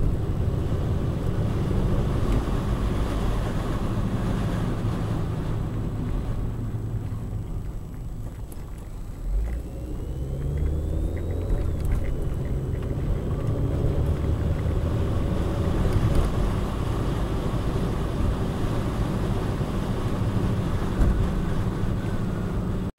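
A car driving, heard from inside the cabin: a steady low engine and road rumble that eases briefly about a third of the way through, then picks up again.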